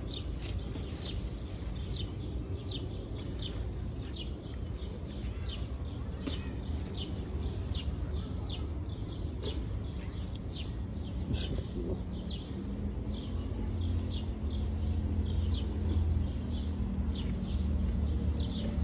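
Small birds chirping: short, high chirps repeated about twice a second, over a low steady hum that grows stronger in the last third.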